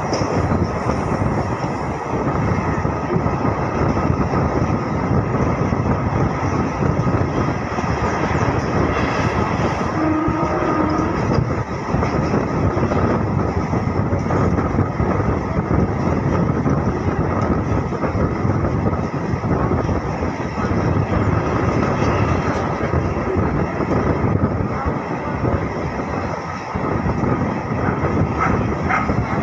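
MEMU passenger train running along the line, heard at an open coach door: a steady, loud rumble of wheels on the rails mixed with rushing air.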